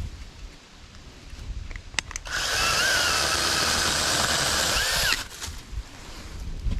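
Saker 20-volt cordless mini chainsaw on an extension pole, running in one burst of about three seconds a little over two seconds in. Its electric motor and chain whine at a high pitch that swoops as the saw speeds up and winds down.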